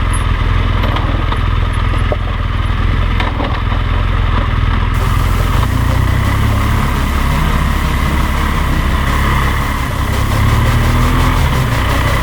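BMW R 1200 GS LC's boxer-twin engine running as the motorcycle is ridden, its low engine note shifting in pitch a few times with the throttle.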